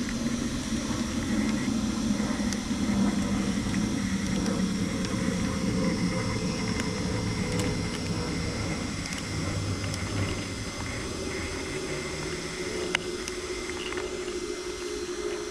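Electric radio-controlled buggies running on a carpet track: a steady mix of motor whine and tyre noise with no clear revving, and a single sharp click near the end.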